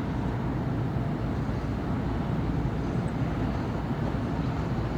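Steady city traffic noise: a continuous low rumble of passing cars and buses on a busy avenue.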